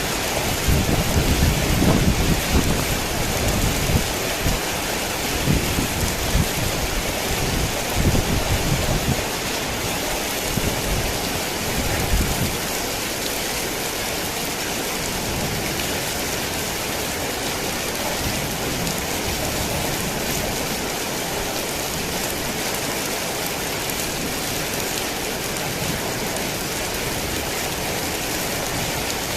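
Heavy rain pouring steadily, with low rolling thunder rumbling through the first dozen seconds or so before fading out, leaving only the rain.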